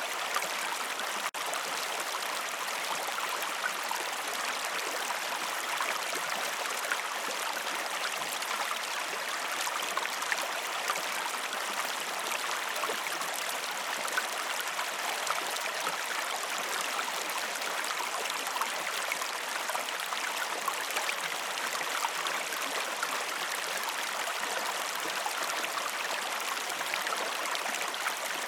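River water flowing steadily, a continuous rushing with small splashes and babbling. There is a momentary drop in level about a second in.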